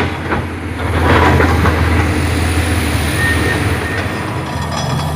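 Komatsu PC400 excavator's diesel engine running steadily under load, with the bucket teeth grinding and scraping against hard rock and a few short high metallic squeals about three seconds in.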